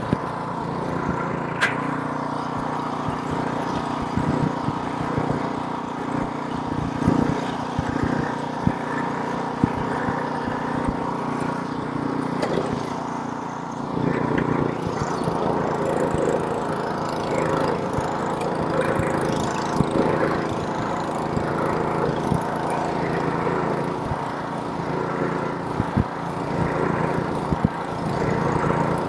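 Snowblower's small gasoline engine running steadily while clearing snow, with scattered sharp knocks and clatter over it. The engine note shifts about halfway through.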